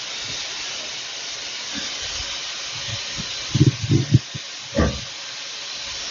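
Steam locomotive 4247, a GWR 4200-class tank engine, hissing steadily as it lets off steam at close range. A few low thumps on the microphone come between about three and a half and five seconds in.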